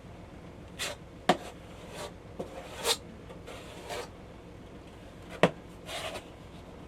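Irregular short strokes of hand sanding with sandpaper on a hardened filler coat, with two sharp knocks, one about a second in and one past the middle.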